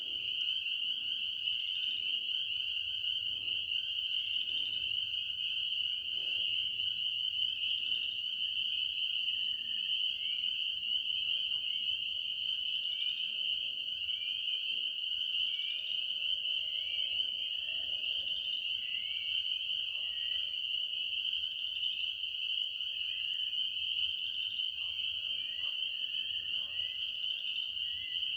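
Dense night chorus of frogs: a steady, high-pitched trilling with no break. Faint short falling chirps sound over it, more often in the second half.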